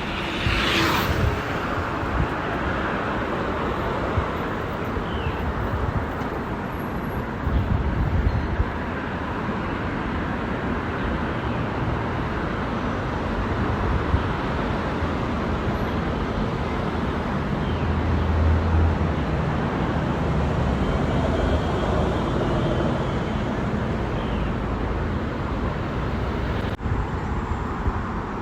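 Steady road traffic noise with the low rumble of passing motor vehicles, heard from a moving bicycle. There is a short hiss about a second in, and the rumble swells for a moment around eighteen seconds in.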